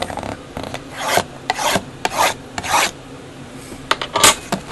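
Cardboard trading-card box and its packaging being handled and opened: a run of short scraping, rustling swishes about every half second, then a sharper snap near the end.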